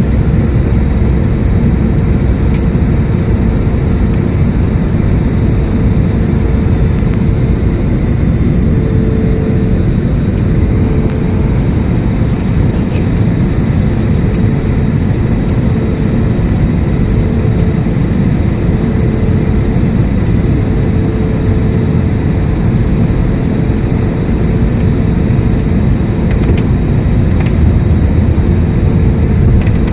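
Steady roar of engine and airflow inside an Airbus A321 airliner's cabin on approach to landing, with a hum that fades in and out through the middle.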